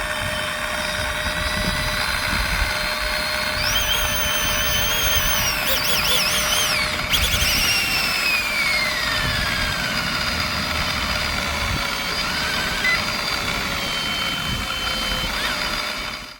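Small RC helicopter's electric motors whining: the pitch rises about three and a half seconds in, wavers with throttle changes, then glides slowly down as the rotors wind down, over a steady low rumble.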